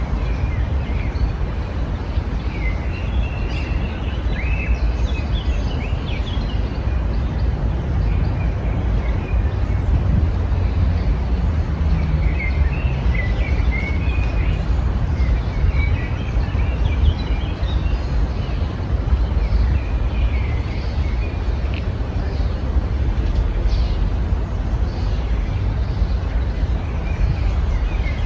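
Small songbirds chirping and trilling in short scattered phrases over a steady low rumble, which is the loudest part of the sound.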